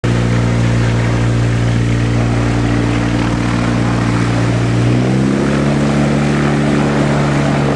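Light aircraft's 130 hp Viking engine and propeller running steadily, then rising in pitch about five seconds in as power comes up for takeoff.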